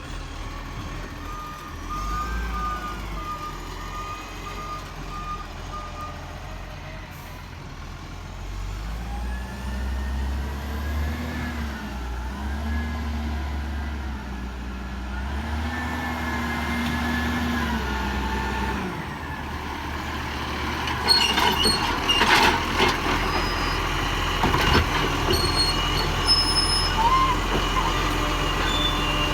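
Garbage truck's engine running, with reversing beeps at about two a second for the first few seconds, then the engine revving up and down several times. In the last third come loud knocks and clattering.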